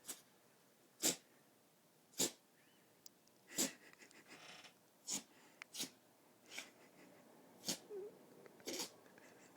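Puppy having a sneezing fit: a string of short, sharp sneezes, roughly one a second.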